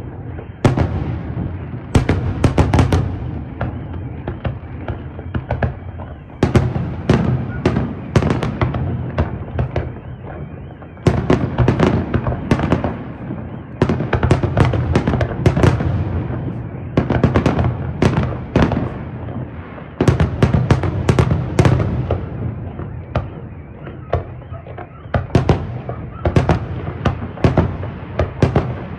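Aerial fireworks display: shells bursting in quick volleys of sharp bangs and crackles over a steady low rumble of booms and echoes, with no let-up.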